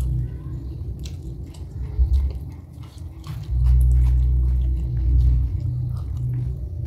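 Close-up biting and chewing of raw vegetables, with short crisp crunches all through. A loud low rumble swells and fades beneath the chewing.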